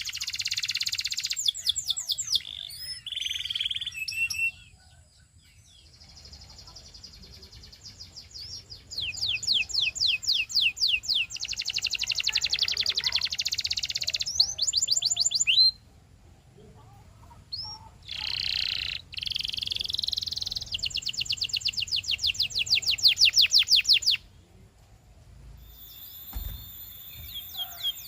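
Domestic canary singing: rapid trills of quickly repeated sweeping notes, delivered in long phrases with short pauses between them.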